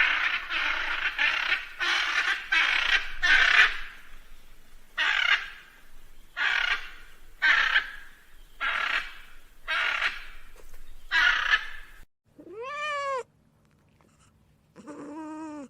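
A run of harsh, raspy animal calls, several in quick succession and then about one every second. After a cut, a cat meows twice, the first meow rising and falling in pitch.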